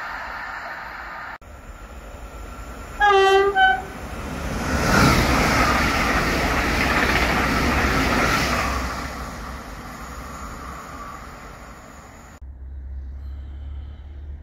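Train horn sounding two short blasts, then an electric passenger train passing at speed along the platform, its rolling noise swelling to a peak and fading away. The sound cuts off suddenly near the end.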